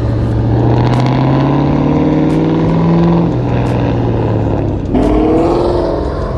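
Car engine revving under acceleration: its pitch climbs, falls away about three seconds in, then climbs again about five seconds in.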